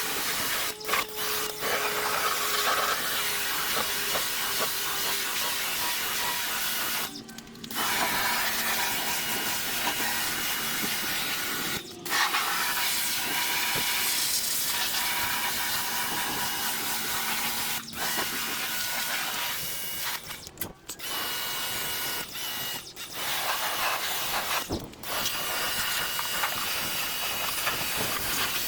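Small pressure washer spraying water in a steady hiss, the spray cutting off briefly about six times as the trigger is let go.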